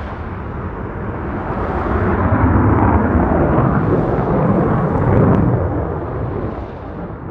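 Military jet aircraft flying past, its engine roar building, loudest in the middle for a few seconds, then fading away.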